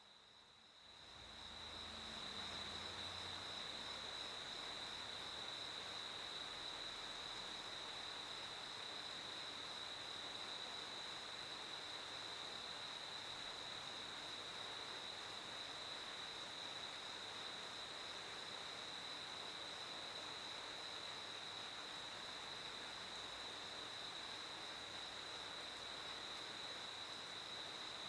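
Crickets trilling in one steady, unbroken high-pitched drone, which fades in over the first couple of seconds and then holds even.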